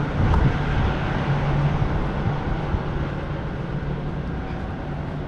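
Semi truck's diesel engine idling, a steady low hum under continuous outdoor rumble.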